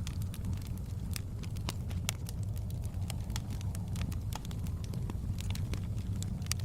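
Wood fire crackling in a fireplace, with many irregular sharp pops and snaps over a steady low rumble.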